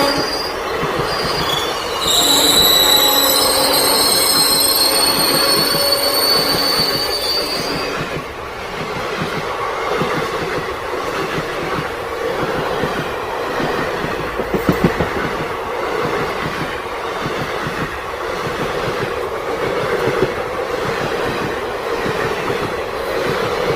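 Indian Railways train running on the rails: a high wheel squeal for about six seconds near the start, then a steady rolling rumble with a rhythmic clickety-clack of the wheels over rail joints.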